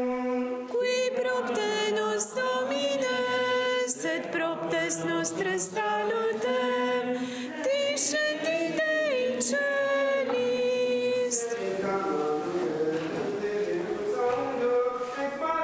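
Unaccompanied choir singing chant: long held notes moving up and down in small steps, without instruments.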